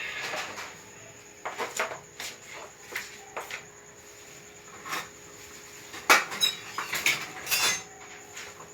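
Kitchen utensils and dishes clinking and knocking in irregular short strikes as food is served, a few with a brief metallic ring. The strikes come thickest and loudest about six to eight seconds in.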